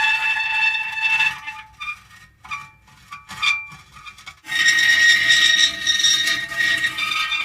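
Metal creaking. A long, drawn-out pitched squeal gives way about a second and a half in to a quieter stretch of short, broken creaks. Halfway through, another long squeal sets in at a higher pitch.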